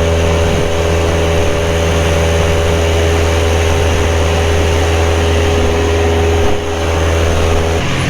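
Carbon Cub light aircraft's engine and propeller running steadily at full power on takeoff and climb-out, a constant drone. The sound dips briefly about six and a half seconds in and shifts in tone near the end.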